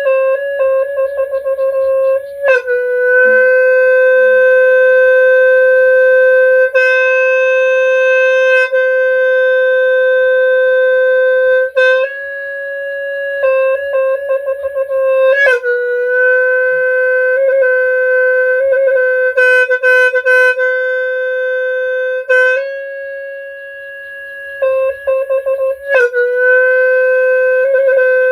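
Khmer sneng, a cattle-horn free-reed horn, sounding long held notes that switch back and forth between two close pitches, with quick fluttering trills at each change.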